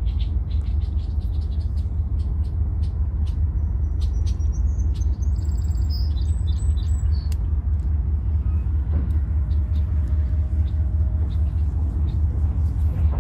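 Freight train rolling past: a steady low rumble with frequent sharp clicks, and a few brief high-pitched tones about four to seven seconds in.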